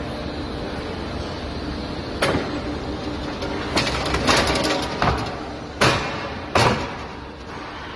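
Pallet repair flip table in use: loud knocks and clatters of a pallet being handled on the table, over a steady machine hum. The first knock comes about two seconds in, then a quick cluster, then two more single knocks near the end.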